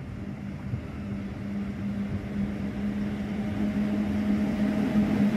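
Electric locomotive hauling a passenger train approaching along the platform: a steady low hum over a rumble, growing louder as it nears.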